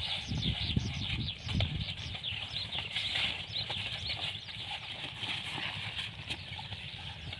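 Many small birds chirping rapidly together, over a low rumble that is strongest in the first two seconds.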